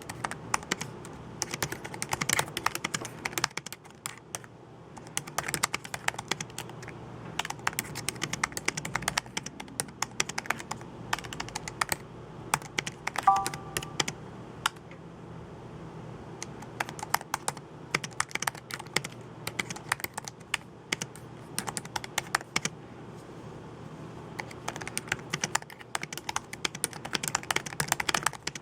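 Typing on a computer keyboard, key clicks coming in quick runs with short pauses between them. A brief beep sounds about halfway through.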